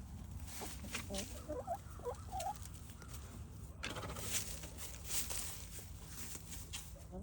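Chickens giving a few soft, short clucks, with scattered light clicks and rustling.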